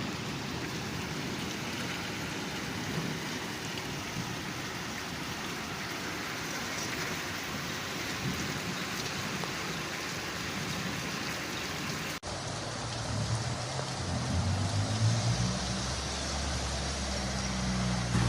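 Heavy rain falling as a steady hiss. About twelve seconds in, the sound cuts to another recording of the rain, and a low rumble joins it and grows louder.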